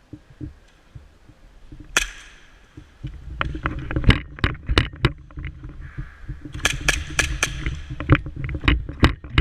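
Airsoft guns firing: one sharp crack about two seconds in, then a rapid, irregular run of cracks from about three and a half seconds on, over a low rumble.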